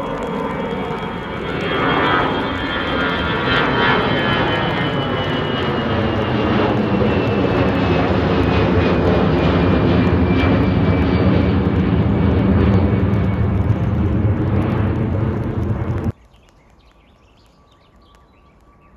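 Departing aircraft's engines at takeoff power, passing close by, with a high whine that slides slowly down in pitch. The sound cuts off suddenly about sixteen seconds in, leaving a faint background.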